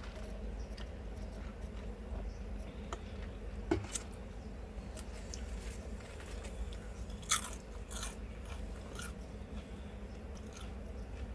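Eating sounds of a Subway steak wrap with vegetables being bitten and chewed: a few short crisp crunches and mouth clicks, most around the middle and two-thirds through, over a steady low hum.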